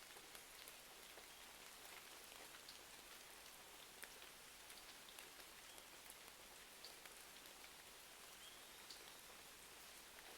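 Faint, steady rain falling, dotted with scattered small crackles and ticks.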